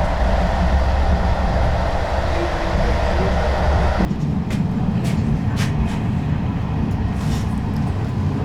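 Passenger train running along the line, a steady rumble with hiss. About four seconds in the sound changes abruptly to a lower rumble with a few scattered clicks.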